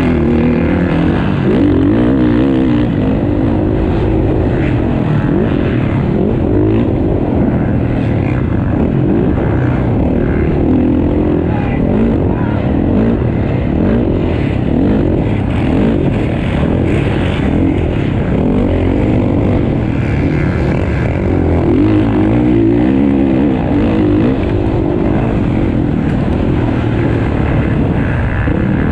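Several motocross bikes racing together, their engines revving up and down continuously as they accelerate and shift around the track.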